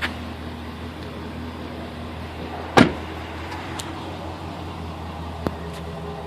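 Chevrolet Vortec 6.0 gas V8 idling steadily, with a loud sharp knock about three seconds in and a fainter click near the end.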